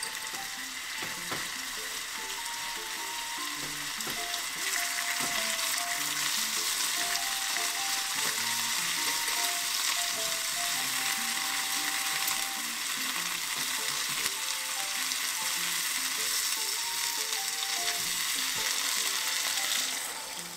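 Chicken thigh, taro and long green onion pieces sizzling in a little oil in a saucepan, the sizzle getting louder about four seconds in as the pieces are turned with tongs. Near the end the sizzle falls away as water is poured in.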